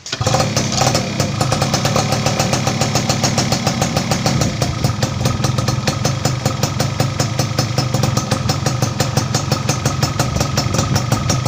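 Yamaha F1ZR's two-stroke single-cylinder engine idling steadily, with a fast, even run of firing pulses. It is running on a Jupiter Z DC CDI fitted in place of the original AC one, and the idle holds stable.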